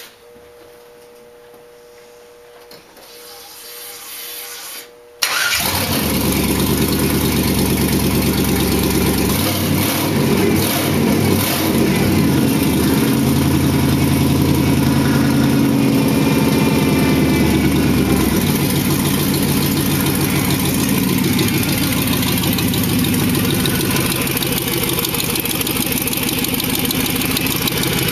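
2001 4.8-litre GM truck V8 in a 1987 Oldsmobile 442 starting: after a few seconds of near quiet it fires abruptly about five seconds in and runs at a fast idle, which settles to a lower, steady idle about thirteen seconds later.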